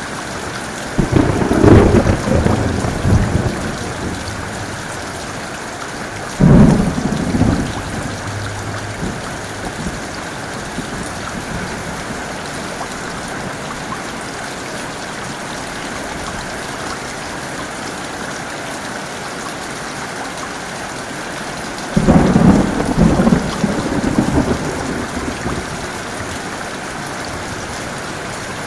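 Heavy rain falling steadily, with three loud rolls of thunder: one about a second in that rumbles for a couple of seconds, a sharper crack about six seconds in, and a longer rumble about 22 seconds in.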